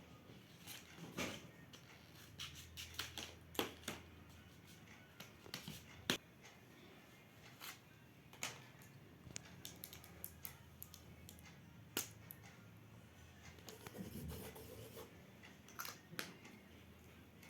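Scattered small clicks and taps of objects being handled, with a brief rustle near the end.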